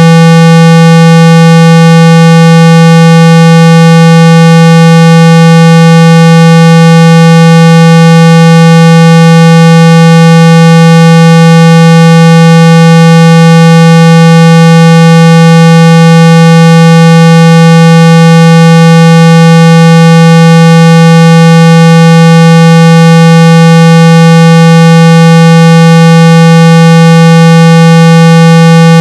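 A synthesized 165 Hz tone played at full volume, held perfectly steady with a stack of overtones above it. It is a speaker-cleaning tone, played to vibrate water and dust out of a phone's speaker.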